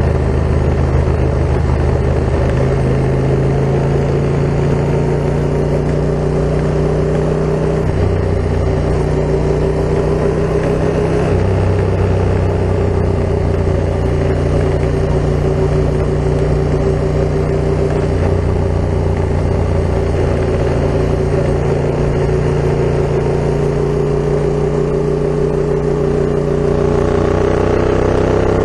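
Yamaha MT-07's 689 cc parallel-twin engine running through an Akrapovic full carbon exhaust, under way at fairly steady revs, with the pitch easing up near the end.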